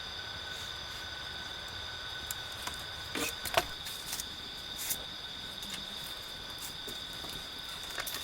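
Steady high-pitched drone of insects (crickets or cicadas) in the forest, with scattered small clicks and snaps, the loudest a few about three and a half seconds in.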